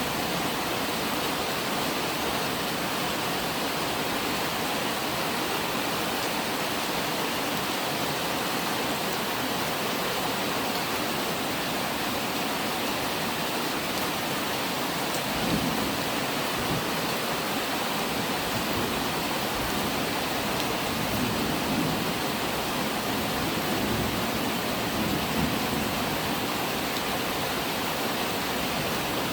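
Steady heavy rainfall, an even hiss, with a few soft low rumbles swelling up in the second half.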